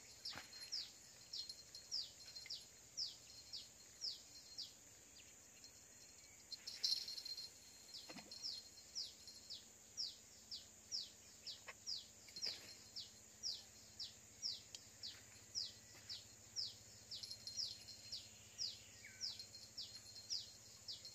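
A bird repeating a short falling chirp about two to three times a second, over a steady high hiss. A brief louder rustle about seven seconds in.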